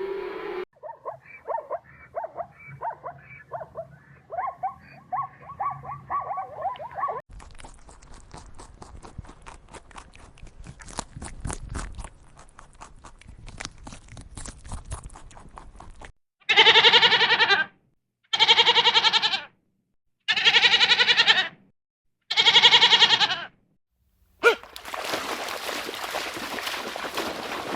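Goat bleating: first a run of short calls, then a stretch of crackling rustle, then four long, loud bleats about two seconds apart.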